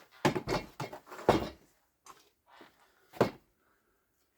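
Knocks and clatters of hard parts and tools being handled on the mower's wheel-motor housing, about half a dozen irregular hits, the loudest about a second in and again just after three seconds.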